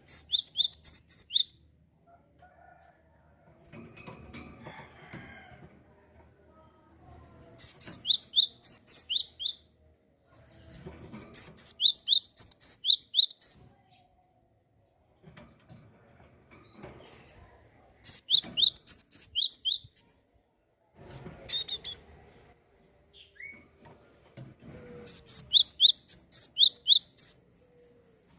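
A gelatik singing in five bursts, each a rapid string of about eight to ten high down-slurred notes lasting around two seconds. Between the bursts there is softer rustling or fluttering, and one short noisy burst a little past the middle.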